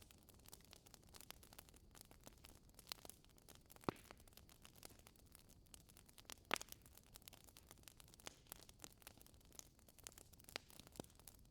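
Wood fire crackling in a fireplace: a steady scatter of faint sharp pops and clicks over a soft hiss, with two louder pops about four and six and a half seconds in.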